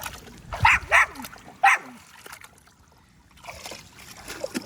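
A dog barks three times in quick succession, all within about a second.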